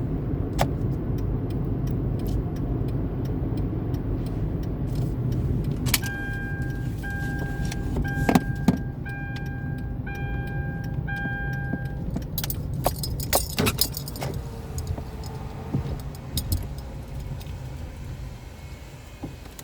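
A car's engine idling with a steady low rumble, fading toward the end. Partway through, an electronic beep sounds six times, about once a second, followed by a flurry of sharp clicks and rattles.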